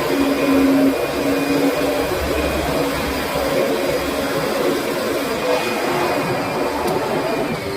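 Kirby Sentria upright vacuum cleaner running steadily: a constant rush of air with a motor whine over it.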